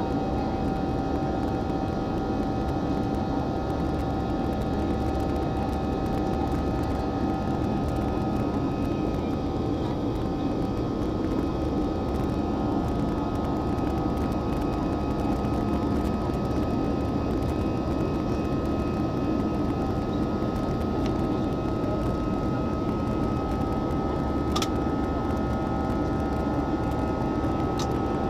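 Jet airliner cabin noise during the climb: a steady rush of engines and airflow with a few constant whining tones on top. A single faint click sounds near the end.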